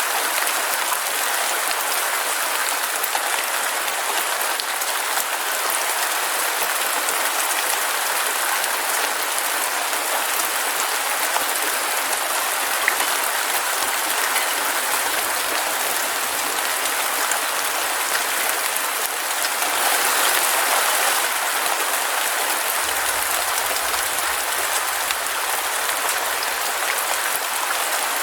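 Heavy rain falling steadily in a dense, even hiss, swelling a little about two-thirds of the way through.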